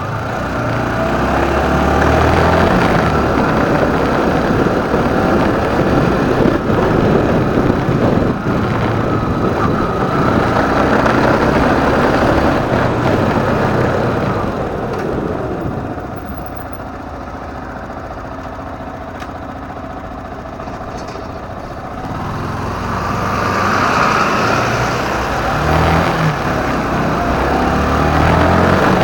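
Motorcycle riding in city traffic: engine and rushing air loud while under way, dropping to a quieter idle for several seconds past the middle, then building again as it pulls away.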